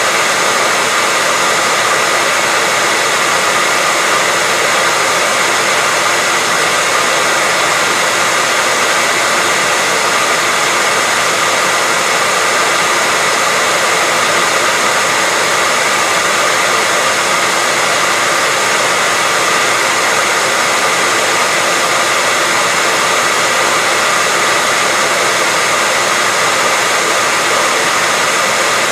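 Hair dryer running continuously at a constant setting: a steady, loud airflow hiss with a faint motor whine near 2 kHz, without breaks or changes.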